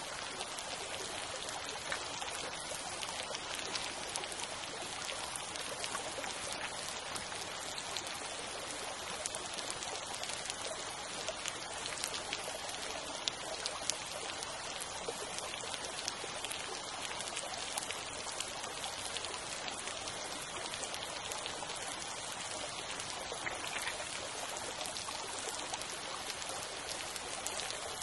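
Small creek flowing steadily, water babbling over stones, with tiny ticks and splashes through it.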